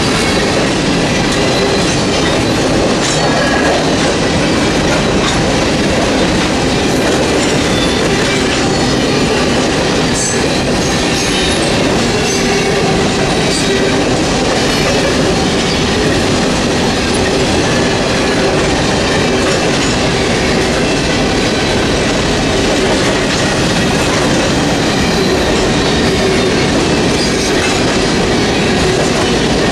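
Freight train of covered hopper cars rolling steadily past at close range: the continuous rumble and clatter of steel wheels on the rails.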